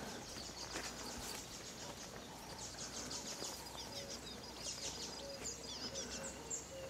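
Faint open-air ambience with small birds calling: quick high chirps starting about halfway through, joined by a few short, lower whistled notes.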